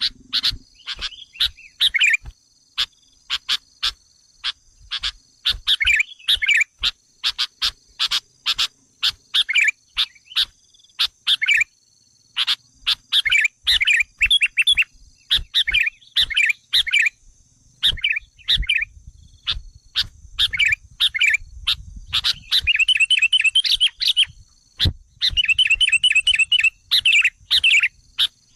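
Sooty-headed bulbuls (kutilang) calling: a dense run of short, sharp chirps and warbled phrases, breaking into rapid chattering trills in the second half.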